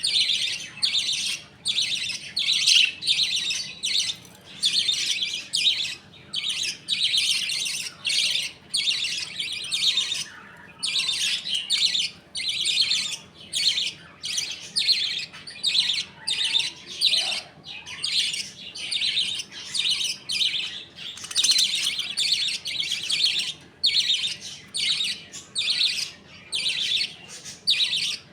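A colony of budgerigars chirping and chattering without a break, many high calls overlapping in quick bursts.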